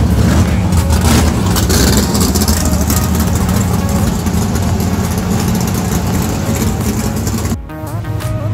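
Nissan VR38 twin-turbo V6, stroked to 4.1 litres, running steadily at idle in the engine bay of a Toyota 86; the sound changes abruptly near the end.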